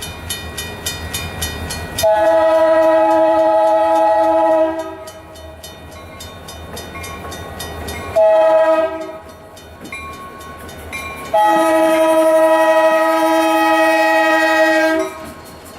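Locomotive air horn on EMD SD40-2 HLCX 7842 sounding a chord in three blasts: long, short, long. This is the closing part of the grade-crossing signal. The train rumbles on between blasts.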